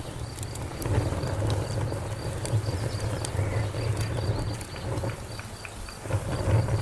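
Wood fire crackling, with scattered sharp pops and snaps over a low steady rumble of burning flames.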